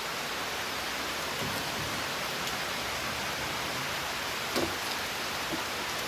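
Steady rainfall, an even hiss with a few faint drips and ticks, one a little louder about four and a half seconds in.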